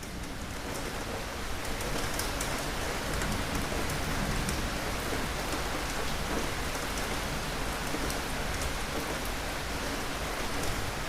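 Steady, heavy rain falling, with the patter of single drops standing out; it swells up over the first two seconds and then holds steady.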